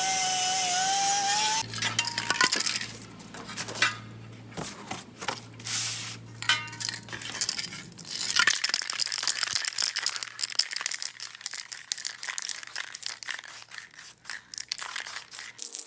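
An electric drill running at steady speed cuts off about a second and a half in. Scattered clinks, taps and scrapes of metal being handled and worked follow.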